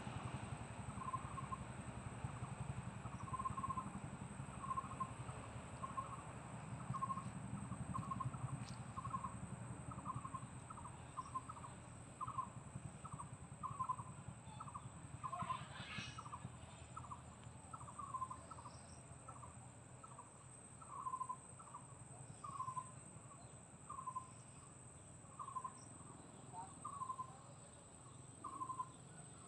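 A bird calling at dusk, repeating one short mid-pitched note over and over, about one to two notes a second. A brief, higher sweeping sound comes about halfway through, and a thin steady high drone runs underneath.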